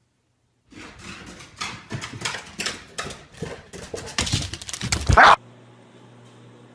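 A dog making a quick run of short, sharp, irregular sounds, loudest just before they stop abruptly.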